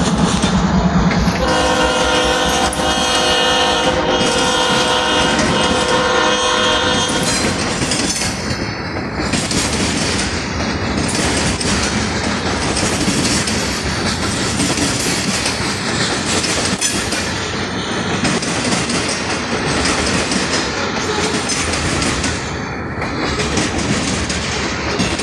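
A diesel-hauled freight train passing close by. A locomotive air horn sounds one long, steady blast of several tones for about six seconds, starting about a second and a half in. Under it and after it, the freight cars roll past with a continuous heavy rumble and the clickety-clack of wheels over the rail joints.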